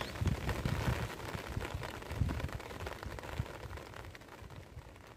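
Rain falling on a flooded grassy field, a steady hiss with irregular low rumbles, fading out gradually.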